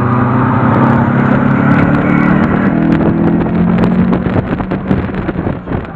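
Mazda MX-5's 1.6-litre four-cylinder engine accelerating hard, heard from inside the open cockpit. The pitch climbs, drops with a gear change about two and a half seconds in, then climbs again before the engine eases off. Sharp clicks and knocks are scattered through the second half.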